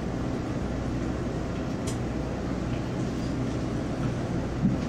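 Taiwan Railway local commuter train rolling slowly through a station, with a steady low rumble. A brief high click comes about two seconds in and a short thump near the end.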